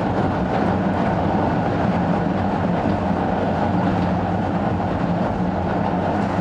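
Sangi Railway Hokusei Line 270-series narrow-gauge (762 mm) electric train running, with a steady hum under continuous wheel-on-rail noise, heard from on board.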